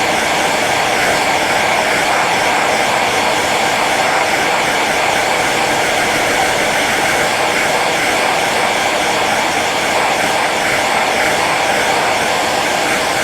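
Hair dryer running steadily on its low setting: an even, unbroken rush of blown air and fan motor.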